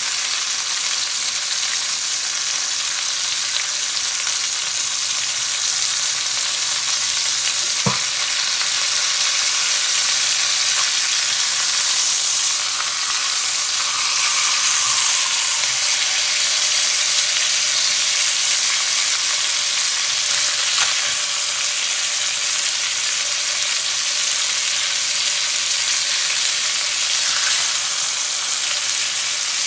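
Chicken thighs searing in a hot pan, a steady sizzle, with one sharp click about eight seconds in.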